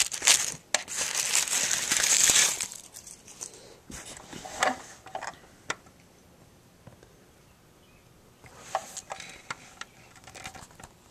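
Tissue paper crinkling and rustling for the first two and a half seconds as a die-cast metal model van is unwrapped, then a few scattered light clicks and taps as the model is handled.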